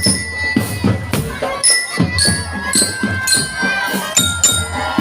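Marching drum band playing: drums beat a steady quick rhythm with jingling percussion, under a high melody of held notes.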